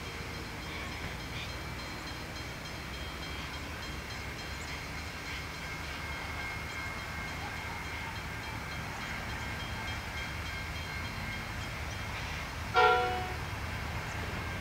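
Two distant NR class locomotives of a loaded steel train, GE 7FDL-16 diesels, rumbling steadily as they approach. About thirteen seconds in comes one short blast of the train horn, the loudest sound here.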